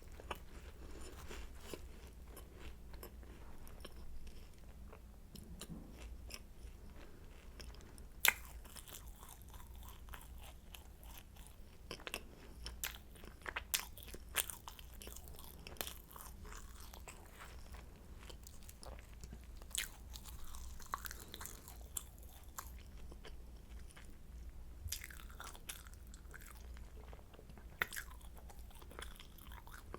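Croissant being bitten into and chewed close to the microphone: flaky pastry crackling and crunching in many small sharp crackles, with a few louder crunches, the loudest about eight seconds in.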